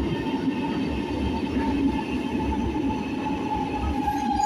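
Milan metro train running underground: a steady low rumble with a thin high whine that slowly drops in pitch.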